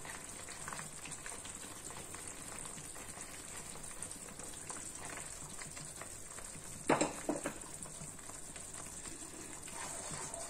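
Banana paste cooking in ghee in a heavy-bottomed pan, sizzling faintly and steadily as strained jaggery syrup is poured in. There is a brief knock about seven seconds in.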